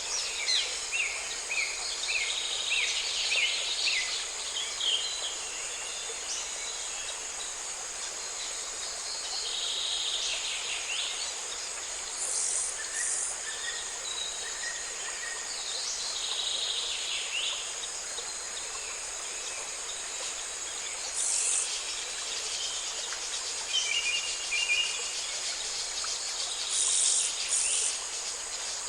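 Steady, high-pitched insect chorus with songbirds calling over it: a quick run of short notes in the first few seconds, then scattered calls and a few brief higher buzzes.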